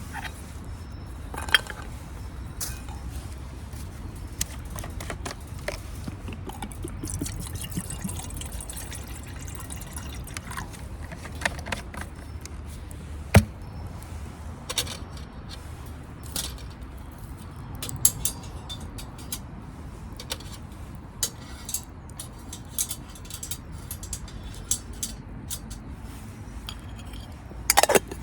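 Wood fire burning in a FIREBOX camp stove, crackling with irregular sharp pops. The loudest pop comes about halfway through, with a quick run of pops near the end.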